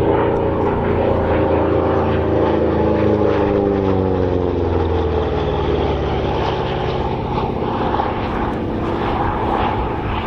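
A P-47 Thunderbolt's 18-cylinder radial engine and propeller passing in a flypast. The engine note drops steadily in pitch over the first five seconds as it goes by, then settles into a rougher, steadier drone.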